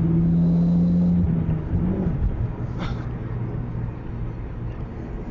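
Mitsubishi Lancer Evolution's turbocharged four-cylinder engine running at high revs, then dropping to lower revs about two seconds in and running on more quietly.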